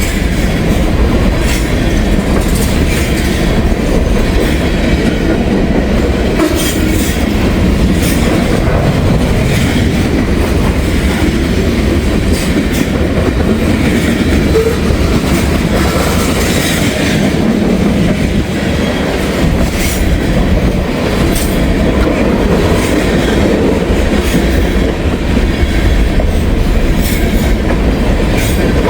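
Train cars rolling steadily past close by: a continuous heavy rumble with scattered wheel clacks.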